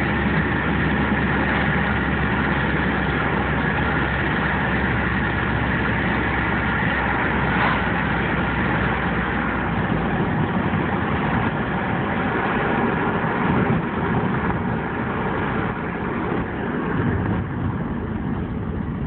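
2002 Subaru WRX wagon's turbocharged flat-four running steadily at idle through its exhaust, which has a slight exhaust leak. A brief sharp sound just under eight seconds in, and the deepest part of the note drops away about ten seconds in.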